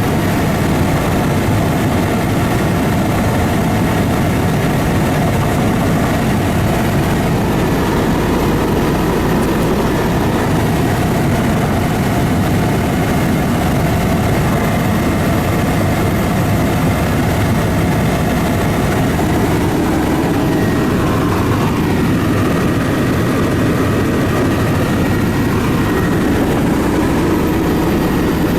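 Aircraft engine running steadily in flight, a loud continuous drone with no breaks.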